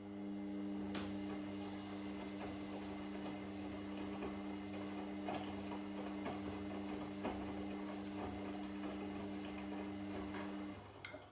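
Washing machine turning its drum during the wash cycle: the motor hums steadily for about ten seconds, then stops suddenly, with scattered light clicks from the tumbling load.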